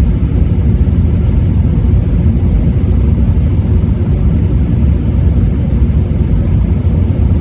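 Steady low rumble of a car on the move, heard from inside: road and wind noise.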